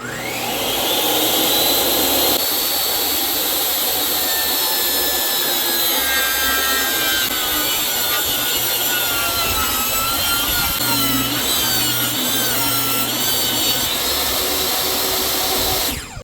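Electric power saw spinning up and cutting through wood, its motor whine rising in the first second, then holding and wavering as the blade works through the cut.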